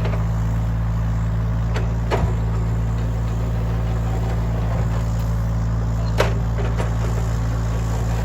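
Engine of the heavy equipment working the driveway, running steadily at a constant speed, with a few sharp clicks or knocks about two seconds in and again about six seconds in.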